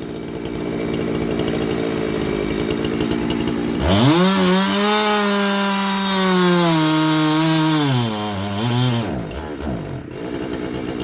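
Large two-stroke chainsaw (about 90cc) running at low revs, then revved hard to full throttle about four seconds in and held there for about four seconds, dropping back to idle with a short blip just before it settles.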